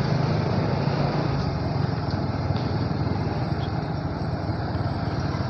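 Motorcycle engine running steadily while riding at a steady pace, a constant low hum with little change.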